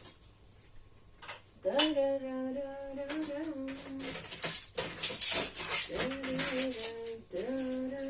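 A woman humming a tune in short phrases of held notes, starting about two seconds in after a sharp click. About halfway through the humming breaks off for a burst of dishes and cutlery clattering, the loudest sound here.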